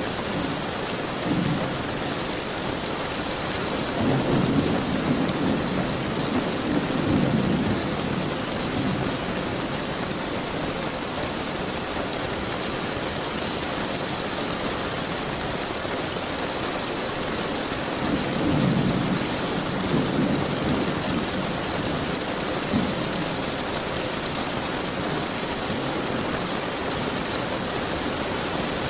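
Steady rain falling, with thunder rumbling low twice: a long roll about four seconds in and another around eighteen seconds in.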